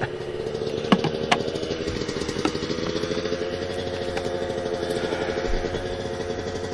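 Dirt bike engine idling steadily, with two sharp clicks about a second in.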